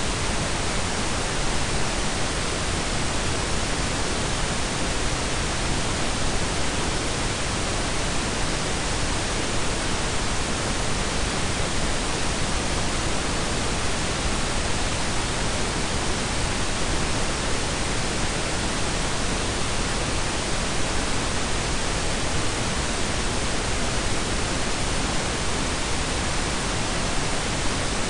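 Steady, even hiss of blended pink and brown noise, with no change in level or character.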